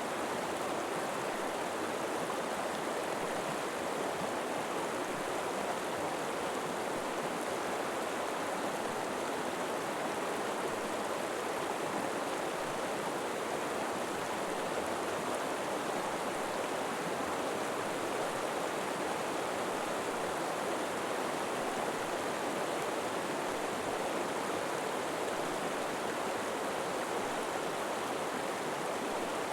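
River water flowing and rushing steadily, an even, unchanging rush.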